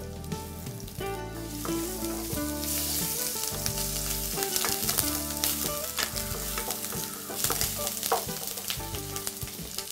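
Chopped garlic and ginger sizzling in hot oil in a kadai, stirred with a wooden spatula that clicks and scrapes against the pan. The sizzle grows louder about a second in.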